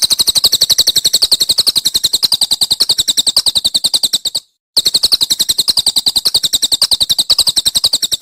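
A songbird's fast, rattling trill of high, even clicking notes, about a dozen a second, in two long runs with a brief break about four and a half seconds in.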